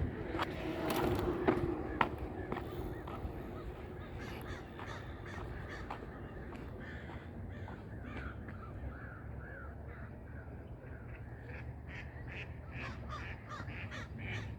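Crows cawing in a series of repeated calls, with a quick run of calls midway. There are a few sharp clicks near the start.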